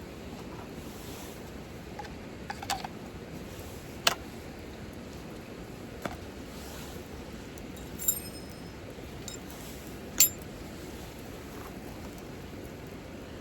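A handful of sharp clinks of small hard objects, about two seconds apart, over a steady hiss. The last two ring briefly and the last is the loudest.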